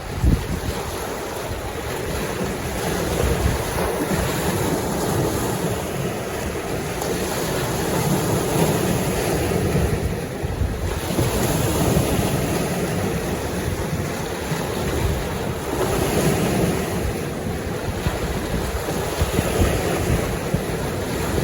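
Lake waves washing against the shore, swelling and easing every few seconds, with wind buffeting the microphone.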